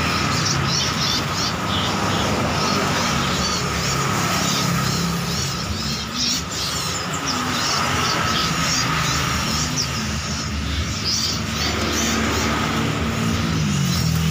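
Many small songbirds chirping in quick, scattered calls over a steady drone of motor engines.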